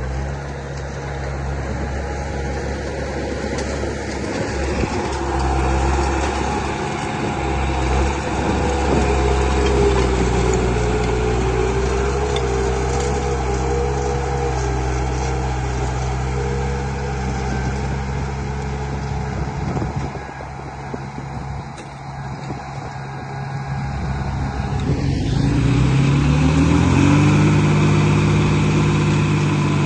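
Construction machine's engine running steadily with a deep hum, revving up in steps near the end.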